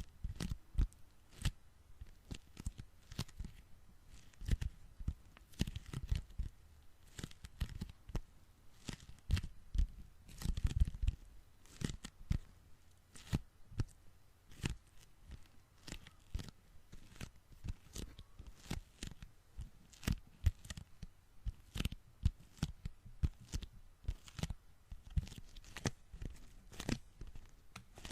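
Sticky hands or fingers peeling apart close to the microphone: a string of sharp, irregular tacky peeling clicks, one or two a second, with a longer run of crackly peeling about ten seconds in.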